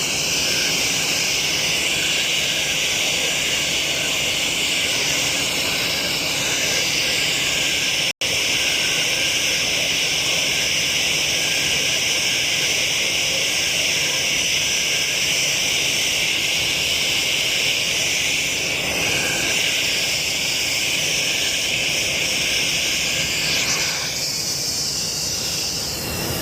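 Airliner jet engines running at idle: a steady high whine over a constant rushing noise, with a momentary dropout about eight seconds in and the whine thinning slightly near the end.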